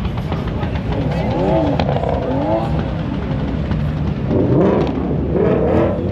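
Drag-race cars accelerating hard, engine pitch climbing and dropping back as they shift up through the gears. A second, louder surge comes about four seconds in.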